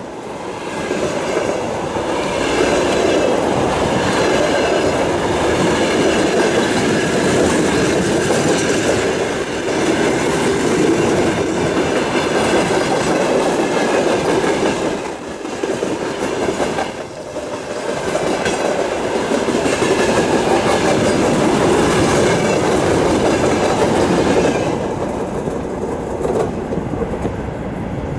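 Freight train rolling past at speed, the wagons' wheels clattering steadily over the rail joints; it eases briefly partway through and gets quieter near the end.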